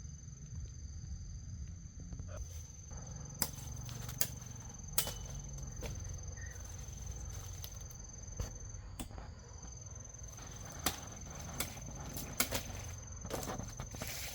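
An insect's steady high-pitched trill over a low rumble, with scattered sharp knocks and snaps about every second or so.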